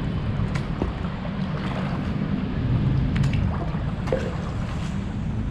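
Water splashing and dripping around a paddle as a stand-up paddle board is paddled, with scattered small splashes over a steady low rumble.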